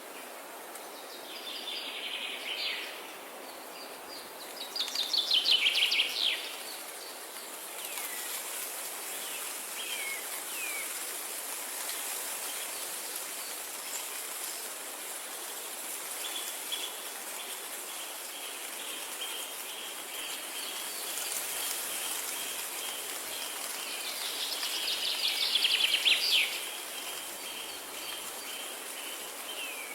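Songbirds singing over a steady background hiss, with two loud, fast trilled phrases that drop in pitch, about five seconds in and near the end, and scattered short chirps between them. A thin, steady high tone, like an insect, joins in about halfway through.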